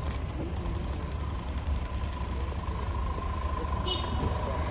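A vehicle engine running at idle, a steady low rumble with a thin constant high tone over it.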